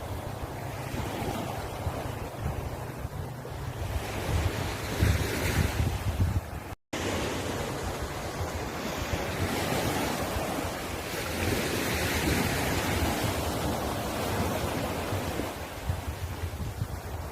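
Sea waves breaking and washing on the shore, swelling and easing, with wind rumbling on the microphone. The sound cuts out for a split second about seven seconds in.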